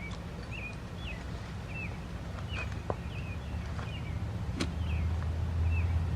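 A bird calling over and over, a short hooked chirp about twice a second, over a low rumble that grows louder in the second half.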